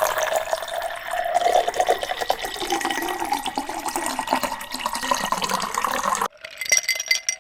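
A drink being poured into a glass, a steady splashing stream that rises in pitch as the glass fills. It stops about six seconds in, and then ice cubes clink and rattle in a glass.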